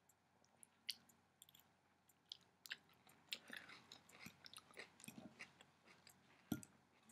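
Faint chewing of a mouthful of raw kale salad: irregular small crunches and wet mouth clicks, with a louder crunch near the end.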